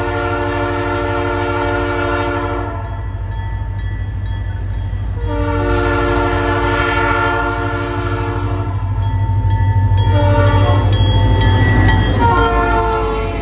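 Locomotive multi-chime air horn sounding two long blasts, then a shorter one and a last long blast: the long-long-short-long grade-crossing signal. The locomotive's engine rumble builds as it approaches, and the horn chord drops in pitch as the train passes near the end.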